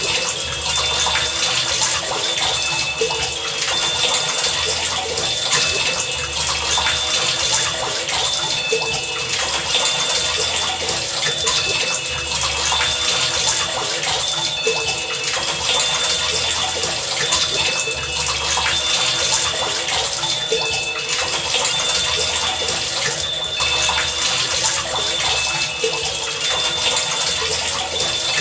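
Steady heavy rain as a dense, even hiss. Short high tones keep coming and going over it, and a low pulse repeats about every two seconds.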